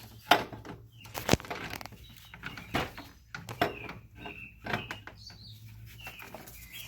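Scattered metal knocks, clunks and scrapes as a replacement alternator is worked down into the engine bay and lined up on its mounting holes.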